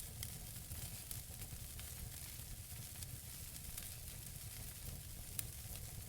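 Wood fire burning in a fireplace: a steady hiss with scattered small crackles, and one sharper pop about five seconds in.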